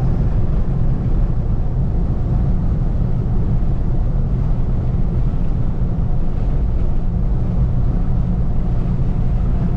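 A motor vehicle running steadily: a loud, even low rumble that does not change.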